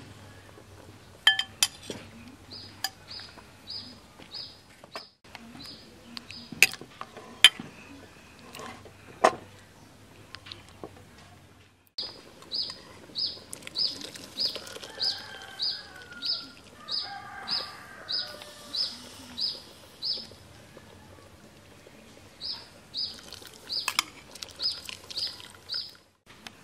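A bird calling in runs of short, high chirps, about two a second. A few sharp clinks of a ladle and bowl against the aluminium cooking pot sound in the first half.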